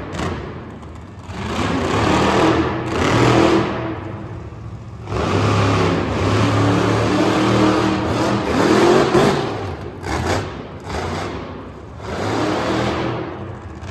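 Monster truck engine revving hard in repeated bursts, the throttle opened and backed off several times, with short lulls about a second in, around four to five seconds, and again after ten seconds.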